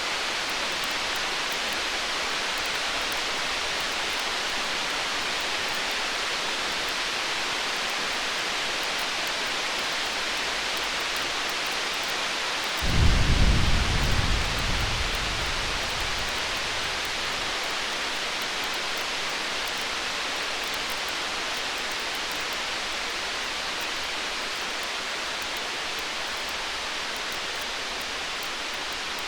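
Distant thunder: one low rumble starts suddenly about halfway through and fades away over about three seconds. Under it runs a steady rain-like hiss with faint crackles of a campfire.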